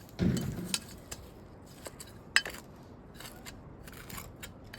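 Brick pavers being handled and set: a dull thump just after the start, then scattered clinks and scrapes of brick on brick, with one sharp knock about two and a half seconds in.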